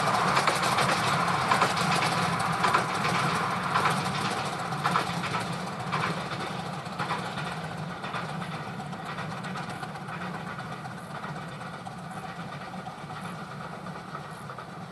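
10.25 inch gauge miniature steam train running, with sharp clicks about once a second over a steady rumble, growing fainter as it moves away.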